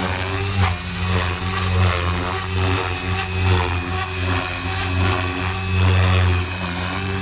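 Electric RC helicopter (Blade Fusion 480) flying, its rotor and motor giving a steady hum with a thin high whine over it, swelling and easing slightly.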